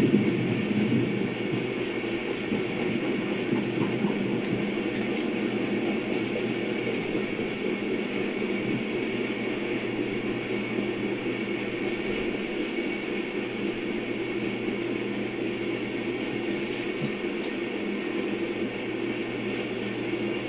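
CSX coal train's hopper cars rolling past on the rails: a steady, even noise of wheels on track.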